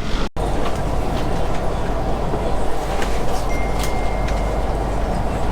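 Steady running noise of an ETS electric train, heard inside the carriage: a dense, even rumble. It cuts out for an instant near the start, and a faint brief whine comes partway through.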